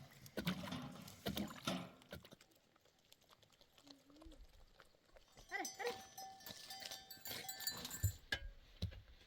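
A flock bleating, with livestock bells ringing.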